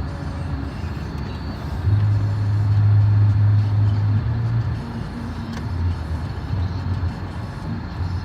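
Car running, a steady low engine-and-road rumble with a hum, which swells louder for a couple of seconds about two seconds in.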